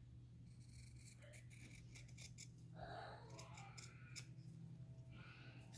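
Scissors making a run of small, faint snips, trimming a piece down.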